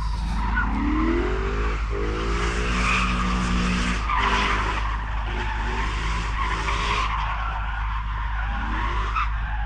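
Motocross dirt bikes revving as they ride the track, engine pitch rising several times over a steady low rumble.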